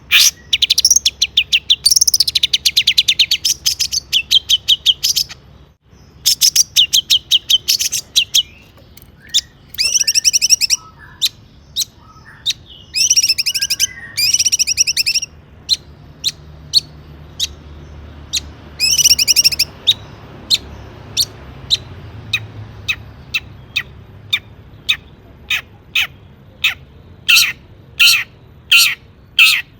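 Long-tailed shrike (cendet) singing: dense, rapid, high-pitched chattering phrases of a second or more, broken by single sharp calls, and a run of separate sharp notes near the end.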